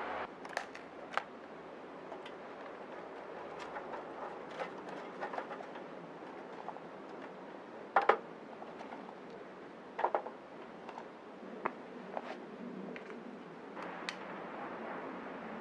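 Wood fire burning with a soft steady hiss and irregular sharp crackles and pops, two louder pops about eight and ten seconds in.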